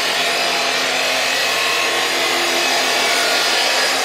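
Chop saw cutting through metal stock, a steady loud hissing grind over the motor's whine.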